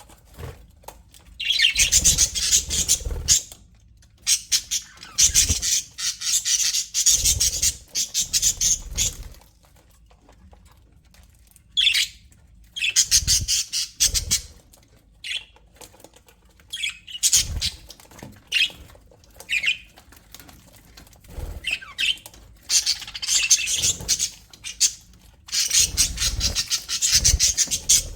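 Budgerigars chattering and squawking in rapid, busy bursts of a few seconds each, broken by short lulls.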